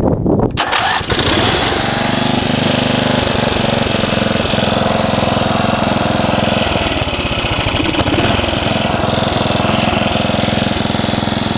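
Sears lawn tractor engine cranked by its starter on a cold start, catching about half a second in and then running steadily.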